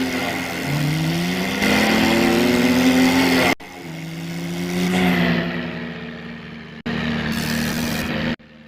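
Engine-revving sound rising in pitch, with abrupt cuts about three and a half seconds in, again near seven seconds, and just before the end.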